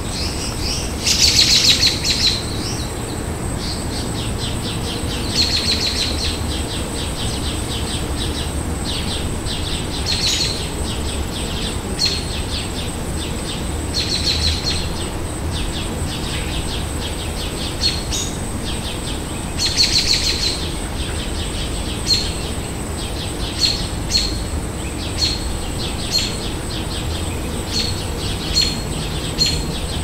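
Songbirds chirping and calling: short high chirps repeating about once a second, with several longer trilling calls at intervals, over a steady thin high-pitched tone.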